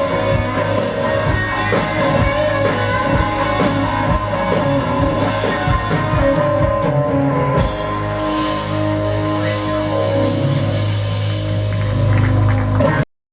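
Live blues-rock band playing, with electric guitar and a drum kit; a bright cymbal wash comes in a little past halfway, and the music cuts off suddenly just before the end.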